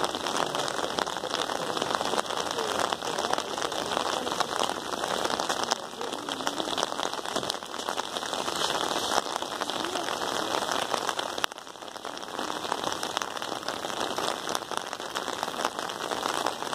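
Steady rain: a dense patter of many drops, some striking an umbrella overhead.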